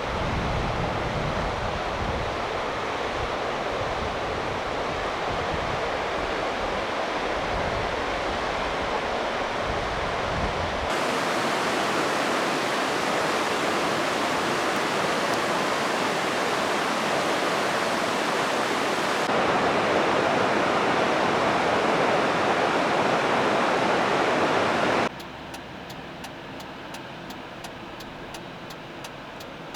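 Rushing waterfall water, a steady hiss made of several recordings cut together, with wind buffeting the microphone in the first part. About 25 seconds in it cuts to a much quieter background with a faint regular ticking.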